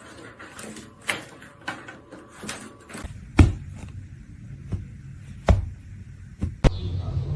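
A series of irregular sharp knocks and thumps, about eight in all, the loudest about three and a half seconds in, with a low rumble underneath from about halfway.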